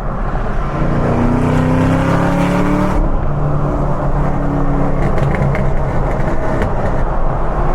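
Supercharged V8 of a Chevrolet Camaro ZL1 accelerating hard, its exhaust note rising in pitch over the first few seconds and then staying loud.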